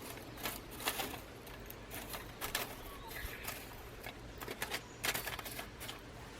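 Small wood fire crackling and popping in a homemade aluminium wood stove, with irregular sharp snaps.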